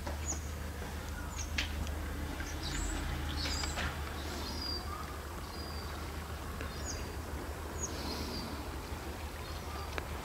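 Birds calling: a series of short, high, falling chirps at irregular intervals over a steady low hum.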